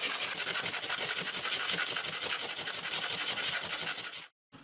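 Aluminium strip being rubbed back and forth on metal sandpaper in rapid, even strokes to thin it for a snug fit in a saw kerf. The sanding stops suddenly near the end.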